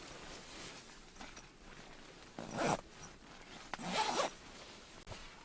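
Sleeping bag zipper being pulled shut in two quick strokes, about two and a half seconds and four seconds in.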